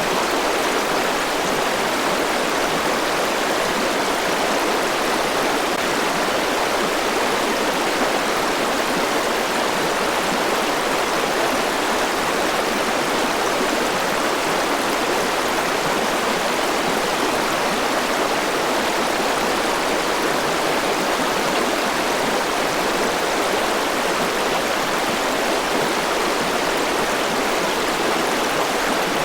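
River water rushing over rocks, a steady, unbroken flow.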